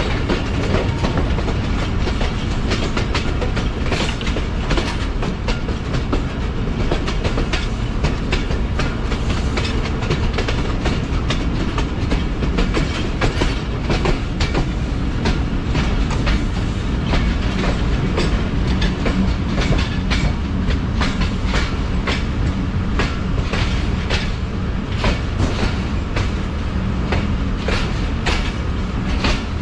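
Passenger train coaches rolling along the track: a steady heavy rumble with rapid, irregular clickety-clack of the wheels over rail joints and points.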